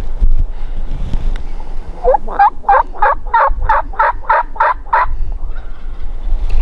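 Turkey calling: a run of about ten evenly spaced notes, some three a second, starting about two seconds in, over a low wind rumble on the microphone.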